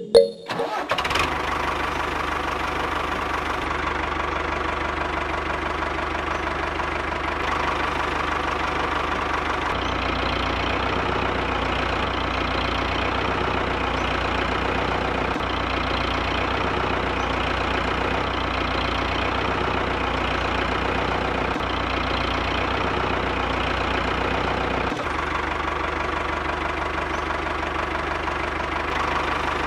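Small diesel engine idling steadily, a constant low chugging beat that starts about a second in.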